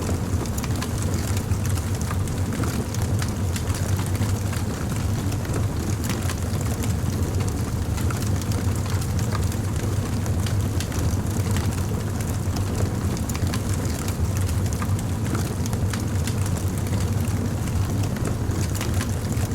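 Wood fire crackling, with frequent small pops and snaps scattered over a steady low rumble.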